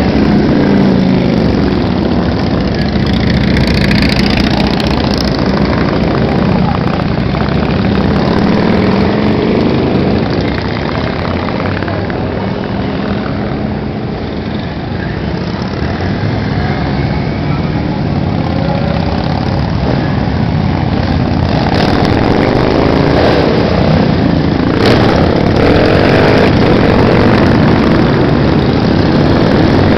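A stream of motorcycles riding past, their engines overlapping and rising and falling in pitch as each one passes.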